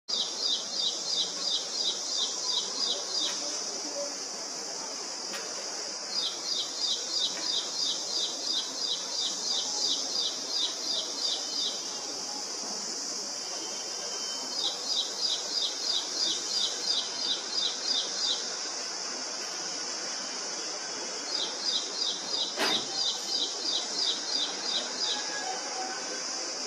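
A small songbird repeating a rapid series of short, high, down-slurred notes, about four a second, in four bouts of several seconds each, over a steady high-pitched hiss. A single knock sounds once, late in the fourth bout.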